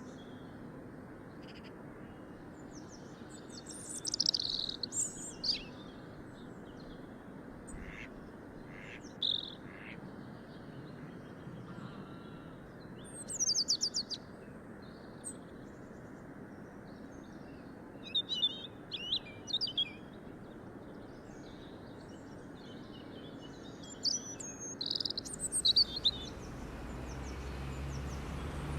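Songbirds chirping and trilling in short, high bursts every few seconds over a steady background hiss. A low hum and rising noise come in near the end.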